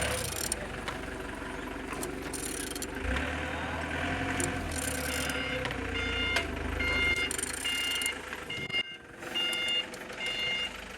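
A vehicle's reversing alarm beeping over and over at an even pace from about five seconds in, over a low engine rumble that fades out partway through.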